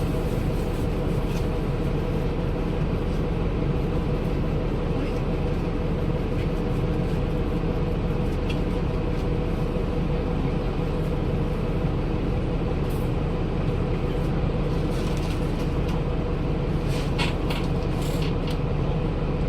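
Daewoo BS106 city bus's Cummins ISL Euro 6 inline-six diesel running steadily at an unchanging speed. A few faint light clicks or rattles come near the end.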